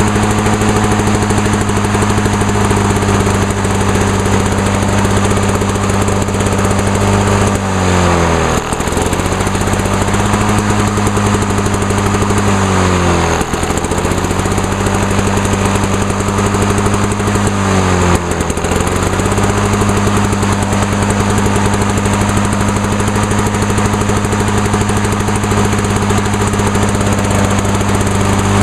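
Lawn-Boy 8461 commercial mower engine running steadily, bogging down three times as Sea Foam spray is sprayed into the carburetor: each time the pitch dips for about a second and then recovers.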